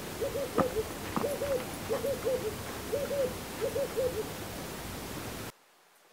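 A bird hooting in short phrases of two or three soft notes, the phrases repeating about once a second over a steady hiss, with a few sharp knocks between them. The sound cuts off suddenly near the end.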